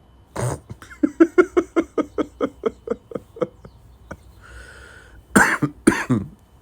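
A man's voice: a quick run of about a dozen voiced laughing pulses that fade out, then a breath and a few sharp coughs near the end.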